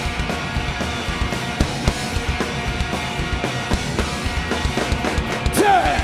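Live rock band playing an instrumental passage: drum kit pounding steadily under guitars. Near the end a short pitched glide falls sharply and is the loudest moment.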